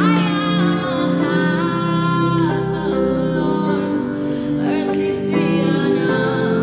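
Music: a female voice singing long held notes over sustained instrumental accompaniment.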